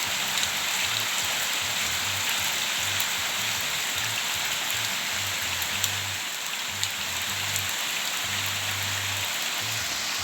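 Steady heavy rain falling on hard surfaces, with individual drops ticking sharply now and then.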